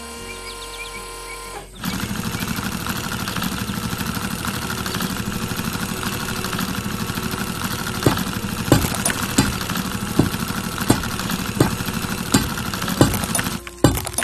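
A motor engine sound effect starts up about two seconds in and keeps running with a rapid, even pulse. From about halfway through, sharp knocks come roughly every two-thirds of a second on top of it, and all of it stops just before the end.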